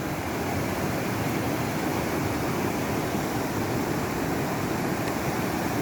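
Floodwater rushing steadily through a gully, a continuous wash of noise.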